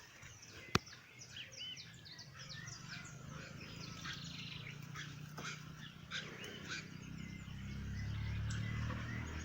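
Birds chirping, many short rapid calls overlapping. A single sharp click comes a little under a second in, and a low rumble builds over the last couple of seconds.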